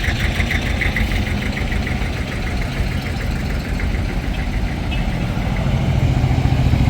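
A vehicle engine idling, a steady low rumble of rapid firing pulses, with a quick ticking over it for the first second or so, growing a little louder near the end.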